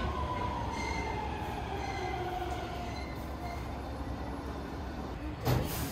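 Sunrise Izumo 285-series electric sleeper train moving along the platform, its running rumble joined by a high whine that falls in pitch over the first few seconds. A brief loud burst of noise comes near the end.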